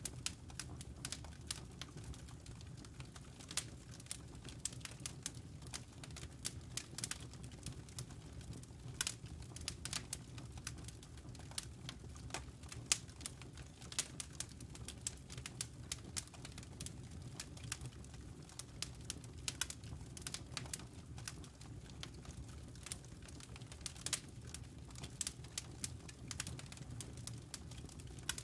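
Campfire embers crackling: frequent irregular sharp pops and snaps over a steady low rumble of the burning fire.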